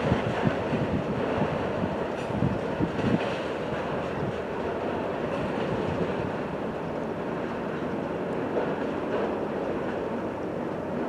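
Freight train cars rolling past, a steady rumble of wheels on rail with a few sharp clicks in the first few seconds.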